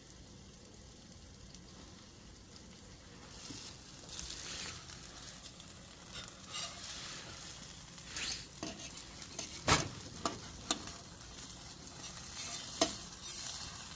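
Buttermilk pancakes sizzling in a hot buttered pan; the sizzle grows louder a few seconds in. A few sharp clicks sound over it, the loudest about ten seconds in.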